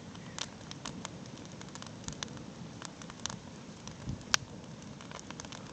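Campfire crackling: wood snapping and popping at irregular intervals over a steady low hiss, with one sharp pop about four seconds in.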